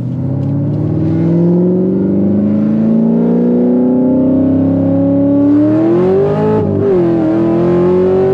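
Cammed C7 Corvette Z06's supercharged V8, with a big aftermarket cam, pulling hard under acceleration, loud, heard from inside the cabin. The engine note climbs steadily for about six seconds, wavers briefly, then holds at a higher, steady pitch.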